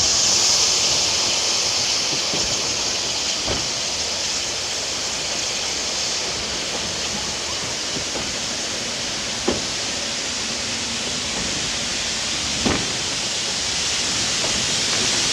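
Narrow-gauge heritage train carriage in motion: a steady hiss of running and wind noise, with a few sharp knocks from the running gear.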